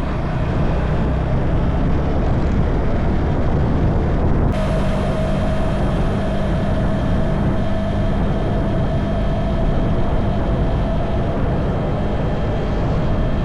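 Wuyang-Honda 190 motorcycle running at road speed, its engine under heavy wind noise. A steady mid-pitched whine joins in about four and a half seconds in.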